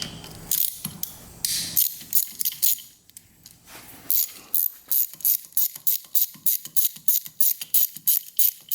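Socket ratchet clicking as it backs out the Allen bolts holding the cylinder on a Yamaha 225DX engine. A few metal clinks of the tool come first, then about four seconds in a steady run of ratchet clicks, about four a second.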